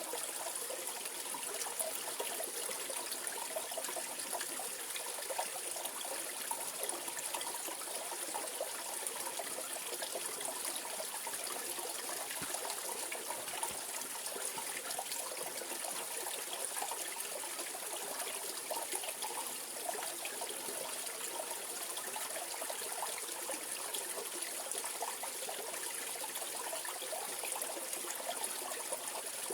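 Mountain valley stream flowing, a steady, unbroken rush and trickle of water.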